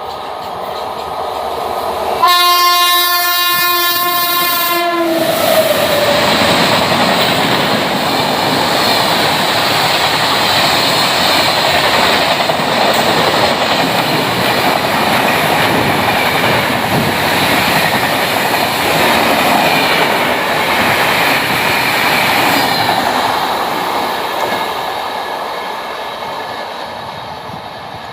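An Indian Railways WAP-7 electric locomotive sounds its horn for about three seconds, the pitch dropping as it passes, then the train rushes past at high speed with its wheels clattering over the rail joints. The noise fades in the last few seconds.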